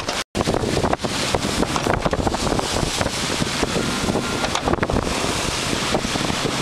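Wind buffeting the microphone over the rush of sea water, aboard a sailing yacht under way. The sound cuts out completely for a moment a fraction of a second in.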